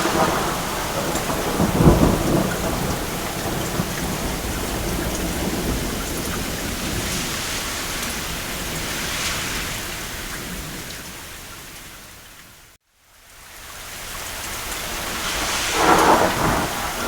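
Steady rain on a cabin roof with rolls of distant thunder, one rumble swelling about two seconds in and another near the end. About three-quarters of the way through the sound fades briefly to silence and swells back.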